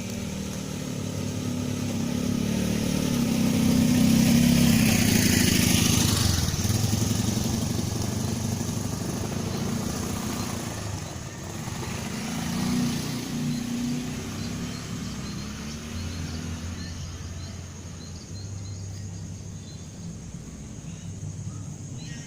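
A motorcycle engine passing by: it grows louder to a peak about four to six seconds in, then fades, with a smaller rise again about twelve seconds in.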